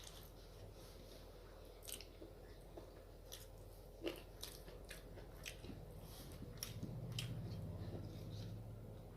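Close-up eating sounds: a person chewing, with scattered wet mouth clicks and smacks and a few sharper crunchy bites.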